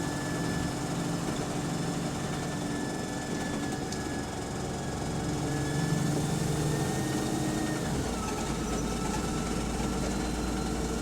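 Double-decker bus's diesel engine and Voith automatic gearbox running under way, heard on board, with a steady gearbox whine. The whine and the engine note drop in pitch about eight seconds in.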